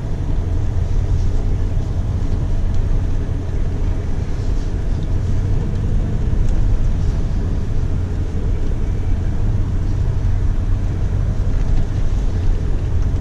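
1995 Ford F-150 4x4 pickup being driven, its engine running at a steady low drone with road noise.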